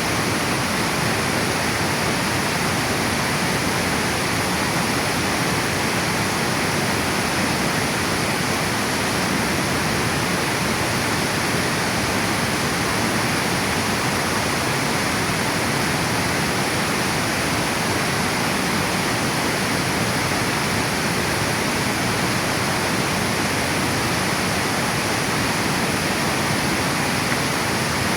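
River water pouring over a dam spillway, a steady, unbroken rushing with no change.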